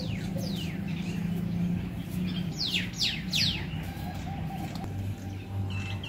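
Birds calling: sharp whistled calls that fall quickly in pitch, one near the start and a quick run of three or four about halfway through, over a steady low hum.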